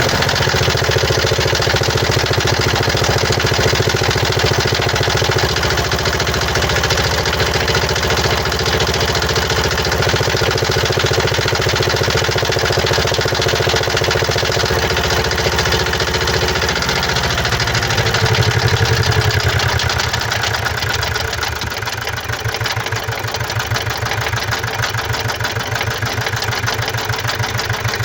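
Mazda CX-5's 2.2-litre SKYACTIV-D diesel engine idling just after a start, with an even, rapid knocking. About seventeen to twenty seconds in, the idle drops lower and settles somewhat quieter. The owner attributes the noise to defective injectors and a defective air mass sensor.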